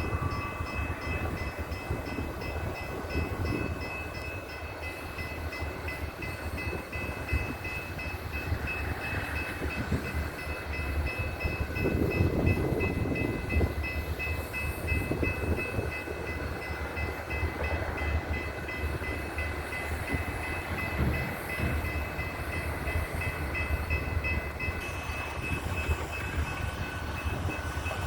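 Loaded coal train rolling, a steady low rumble of the cars and locomotives. A high, rapidly pulsing ringing tone sounds over it.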